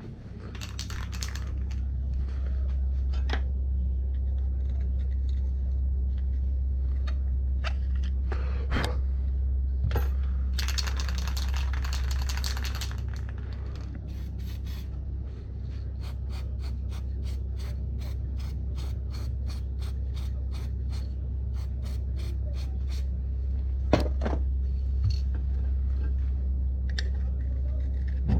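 Metal hand tools and parts clinking and scraping during work on an ATV wheel hub, with a stretch of light ticking at about four a second, over a steady low hum.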